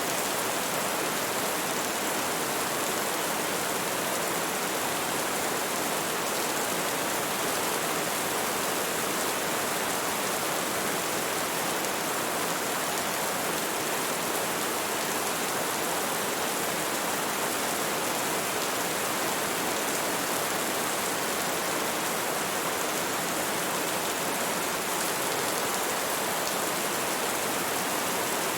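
Steady rain falling, an even unbroken hiss with no distinct drops or thunder.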